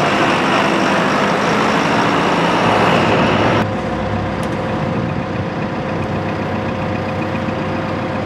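The 2021 John Deere 5100E's four-cylinder turbo diesel engine running. About three and a half seconds in, the level drops suddenly and the sound settles to a quieter, steady hum with a clear tone.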